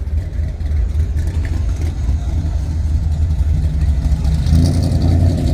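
A car engine running with a deep, steady low rumble, getting a little stronger near the end.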